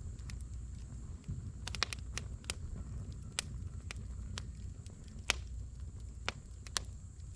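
Firewood burning in a campfire, crackling with sharp pops at irregular intervals over a low steady rumble.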